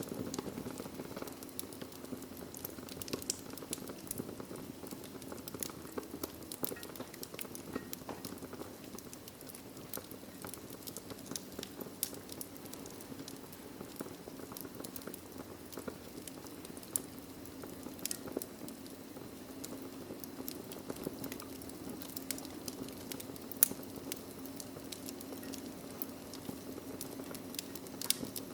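Wood fire burning in a fireplace: a steady low rumble of flames with frequent small crackles and pops, and one louder pop late on.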